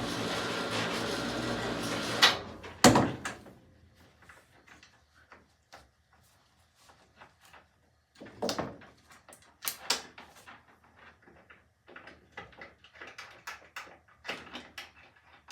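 A steady machine noise stops about two seconds in with two loud clunks, followed by scattered light knocks and clicks of things being handled.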